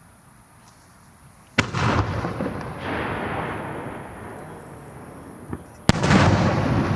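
Aerial fireworks shells bursting: a sharp bang about a second and a half in, followed by a long noisy tail that fades over a few seconds, then a second sharp bang near the end.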